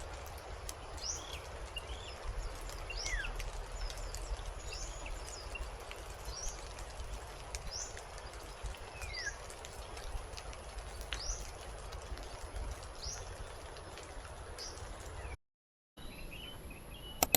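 Steady rain hiss with small birds chirping now and then in short, quick notes. The sound drops out completely for about half a second near the end.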